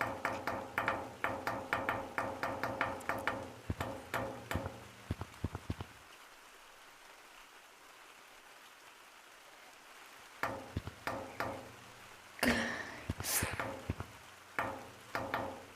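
Rapid light tapping or clicking, about five taps a second, that stops for about four seconds in the middle and then resumes more irregularly, with a few louder taps near the end.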